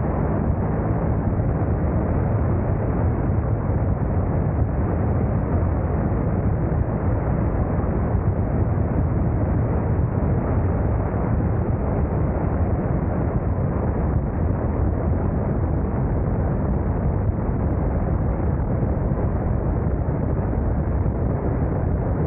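Motorcycle riding at a steady speed: a continuous low engine rumble under wind rushing over the camera's microphone.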